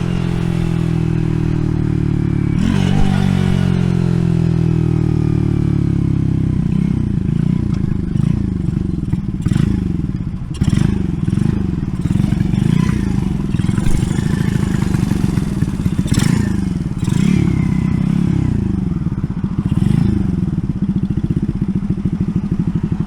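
RPS Racer 140 minibike's 140cc single-cylinder engine running through a stainless steel side-exit exhaust. Its pitch falls over the first several seconds, then it is revved up and down again and again, with a few sharp knocks in between.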